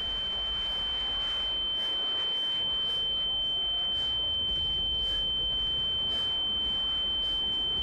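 A steady, high-pitched electronic tone held at one pitch, over faint hiss and light crackle.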